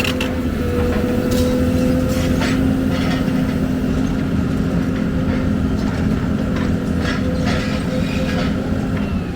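Heavy diesel engine of an excavator running steadily under load, with scattered metallic clanks and knocks from the machine working.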